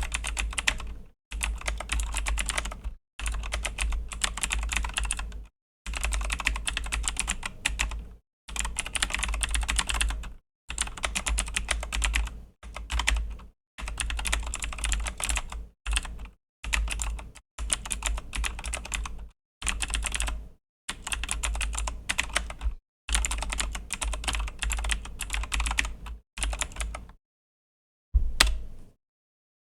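Typing on a Razer BlackWidow V3 mechanical keyboard with clicky Razer Green switches: runs of rapid keystrokes broken by short pauses, with a longer pause and one brief burst near the end.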